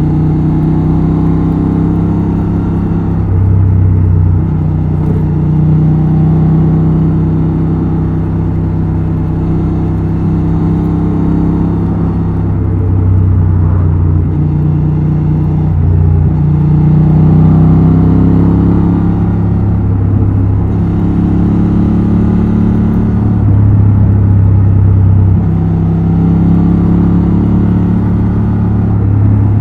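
Honda XL750 Transalp's 755 cc parallel-twin engine and exhaust running under way, its note climbing and dropping several times.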